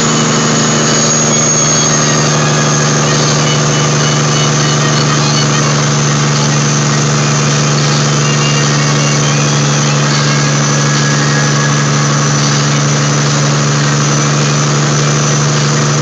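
Kenworth W900A log truck's Caterpillar 3406E inline-six diesel running at a steady, unchanging pitch. A thin high whine fades away over the first two seconds.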